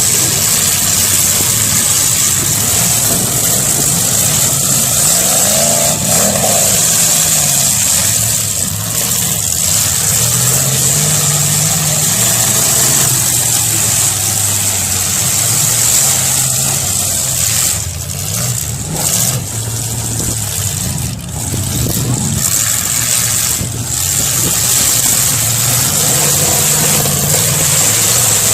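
Demolition derby car engines running and revving, their pitch rising and falling again and again.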